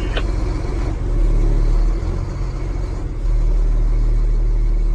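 Engine of an old 1989 International truck running, heard from inside the cab as a steady low drone that gets louder about three seconds in.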